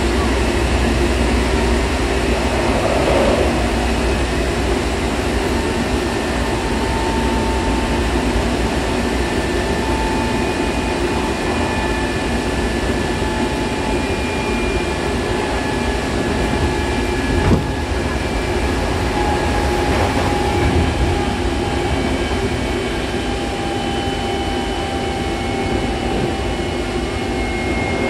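Hankyu Kobe Line electric train running at speed, heard inside the car: a steady rumble of wheels on rail with a faint whine that slowly falls in pitch, and one sharp knock about two-thirds of the way through.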